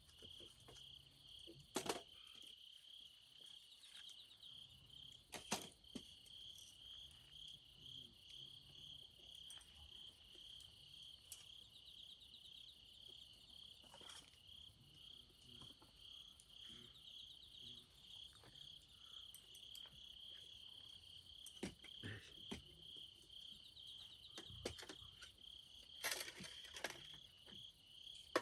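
Crickets chirping steadily in a high, evenly pulsing trill, with a few sharp clicks here and there.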